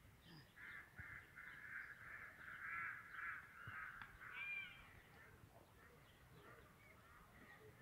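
Faint bird calls: a quick run of short calls, about three a second, lasting around four seconds and then stopping.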